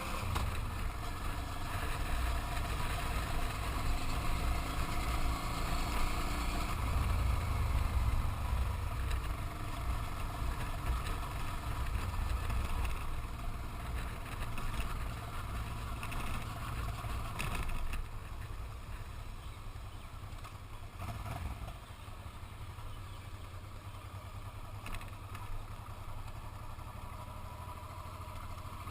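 Motorcycle engine running while riding, with low rumbling wind noise on the microphone. It is louder for the first two-thirds and eases off somewhat after that, as if slowing down.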